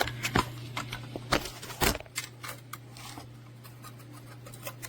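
Handling noise: a run of sharp clicks and knocks, most of them in the first two seconds and fewer after, over a steady low hum.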